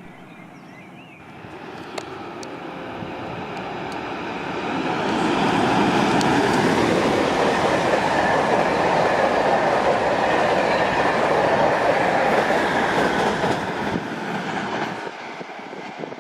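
A train passing through a railway station: the sound builds over about four seconds, stays loud for about eight seconds, then fades away near the end.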